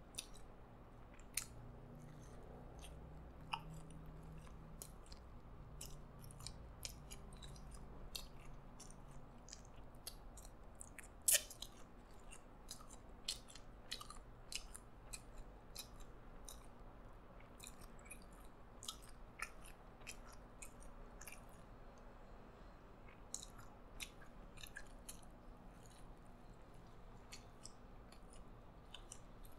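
A person chewing and biting into a burger close to the microphone: soft wet mouth clicks and small crunches throughout, with one sharper, louder click about 11 seconds in.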